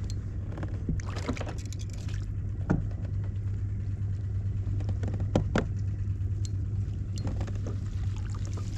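Steady low hum from the fishing boat or kayak on the water, with a few scattered knocks and splashes about one, three, five and a half and seven seconds in.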